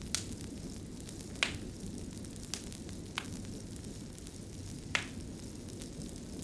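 Fire burning with a steady low rumble, and five sharp crackling pops at irregular intervals.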